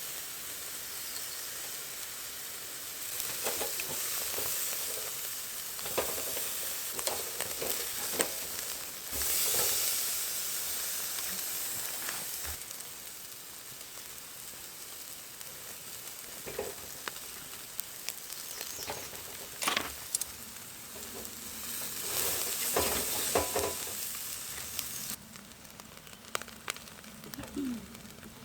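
Pork schnitzel frying in a hot pan: a steady sizzle with scattered clicks and scrapes of a utensil against the pan, louder for a moment about nine seconds in. About 25 seconds in the sizzle drops away suddenly, leaving a few faint clicks.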